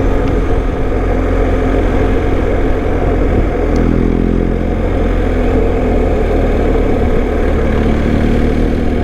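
BMW GS Adventure motorcycle running along under way, its engine note steady beneath a dense rumble of wind and road noise on the bike-mounted microphone. The engine's hum stands out more clearly from about three and a half seconds in.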